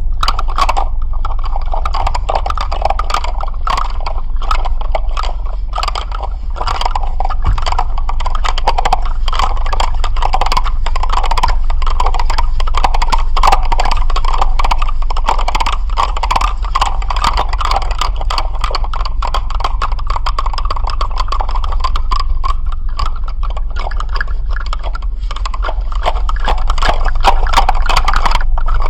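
Intense, continuous rattling: a dense stream of rapid clicks that swells and eases slowly, over a steady low hum.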